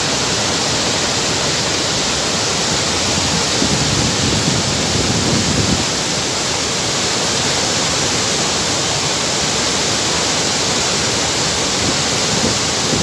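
Steady, loud rushing of a large waterfall, Vazhachal Falls, a dense unbroken roar of falling water.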